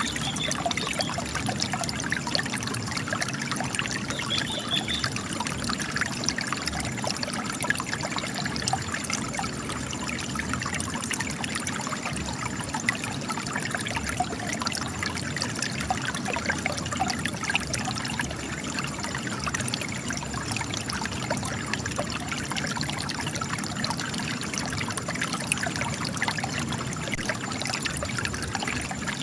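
Spring water gushing and trickling out of cracks in rock: a steady, even splashing flow with many small drips.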